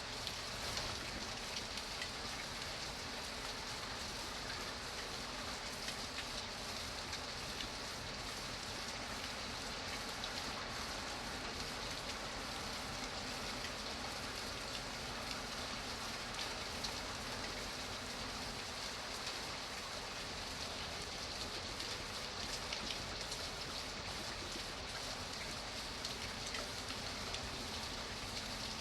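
Steady rain falling, with many small drop ticks on a surface throughout.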